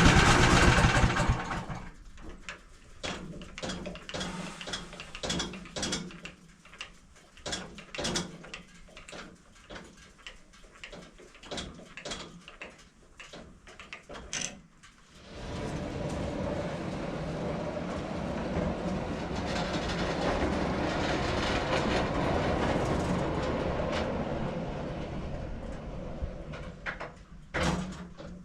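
Portable sawmill engine running, then dying away in the first second or two. A scattered series of knocks and clatter follows. About halfway through a steady noise starts suddenly, then fades near the end with one last knock.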